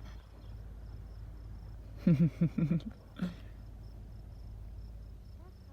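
Crickets chirping in an even, repeating high pulse, about three chirps a second, over a steady low hum. A brief voice-like sound cuts in about two seconds in.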